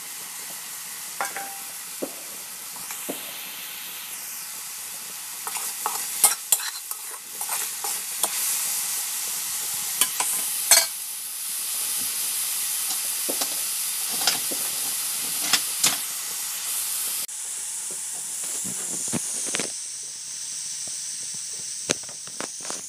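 Shredded mushrooms sizzling in hot oil in a wok: a steady hiss with scattered sharp clicks, a little quieter from about two-thirds through.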